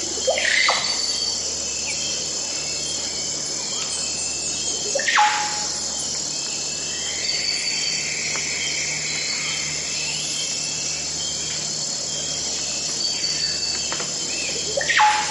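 Forest ambience: a dense, steady insect chorus of crickets, with a few louder sweeping bird calls about five seconds apart.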